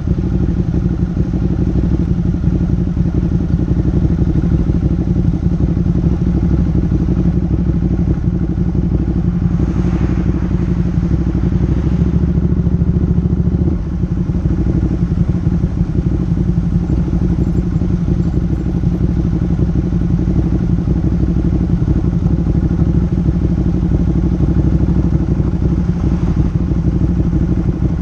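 Motorcycle engine running steadily under way, with a brief surge of noise about ten seconds in.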